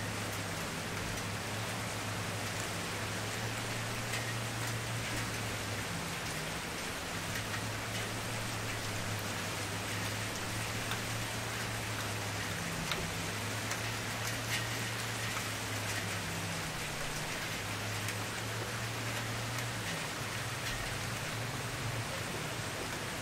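Campfire burning: a steady hiss with scattered small crackles and pops of burning wood. Under it runs a low hum that drops out and comes back every few seconds.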